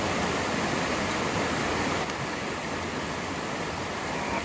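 Steady rushing of a rainforest river flowing over rocks, with no break or change apart from a slight easing about two seconds in.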